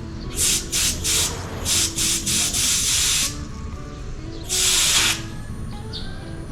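Refrigerant gas hissing in short bursts at the charging hose and valve as a car air-conditioning system is charged. There are several quick bursts, then a longer one of about a second, and one more after a pause, over background music.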